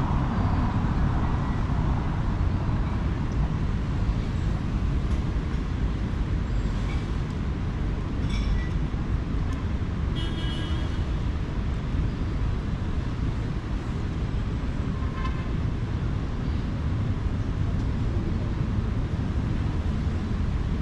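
City street traffic: a steady low rumble of passing vehicles, with a few brief faint high-pitched sounds over it.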